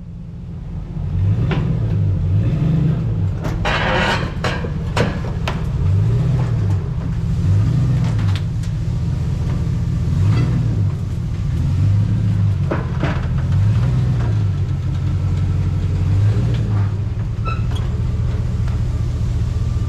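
Motor vehicle engine running with a steady low rumble, its pitch rising and falling every second or two, with a few clicks and knocks scattered through it.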